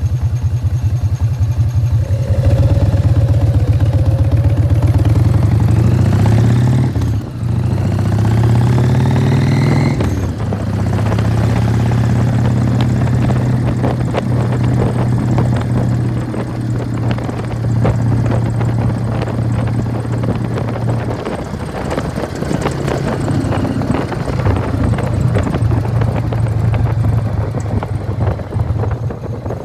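1999 Harley-Davidson Fat Boy's Evolution V-twin running through Python mufflers, pulling away from low revs about two seconds in and accelerating with rising pitch, with short dips at gear changes about seven and ten seconds in. It then settles into steady cruising that swells and eases with the throttle.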